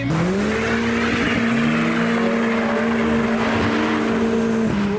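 A modified car's engine revved up and held at steady high revs for about four and a half seconds, with a rushing noise above it, then dropping off near the end.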